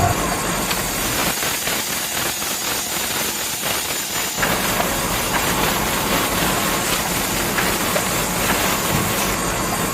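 Small electric motor driving a homemade toy cutter mechanism, running with a steady noisy whirr and fast rattling; the rattle is strongest in the first few seconds and the sound shifts slightly about halfway through.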